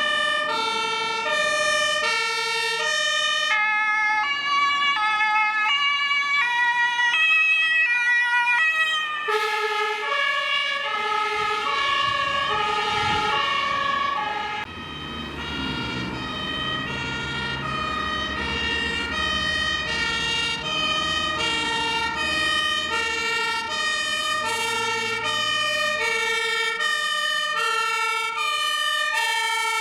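German fire engines' two-tone sirens (Martinshorn) alternating between a high and a low note, with a second siren overlapping out of step for a few seconds early on. About halfway through, a fire truck's diesel engine rumbles past beneath the sirens.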